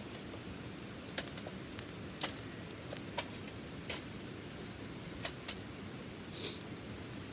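Small wood fire crackling in a colander fire pit: irregular sharp pops over a steady hiss, with one short hissing spurt near the end.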